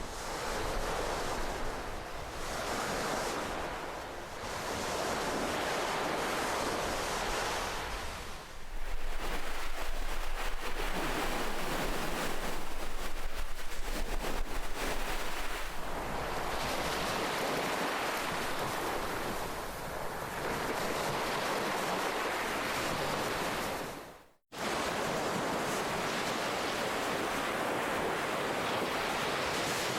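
Ocean surf washing onto a shore: a dense, steady hiss of water that swells and fades every few seconds, louder from about nine seconds in. About 24 seconds in the sound cuts out for a split second, then resumes.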